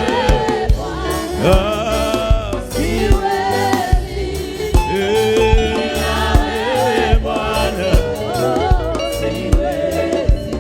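Gospel worship music: voices singing over a band accompaniment with a sustained low backing and a steady, regular beat.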